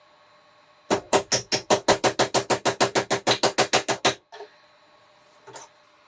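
A rapid, even run of about twenty sharp knocks, some six or seven a second, lasting about three seconds, then two faint knocks.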